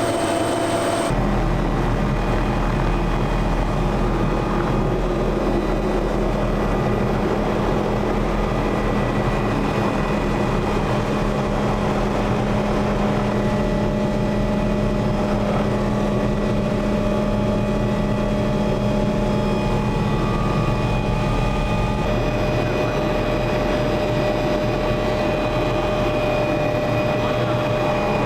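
Steady, loud engine drone of a vehicle in motion, with several held whining tones over it. The sound shifts slightly about a second in and again near the end.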